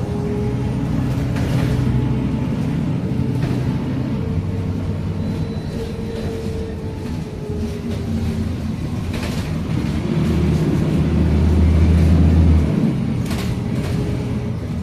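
Scania K310UA articulated bus's diesel engine running while under way, its low drone rising and falling with the throttle and pulling hardest about ten seconds in before easing off. A few short knocks and rattles come through at moments.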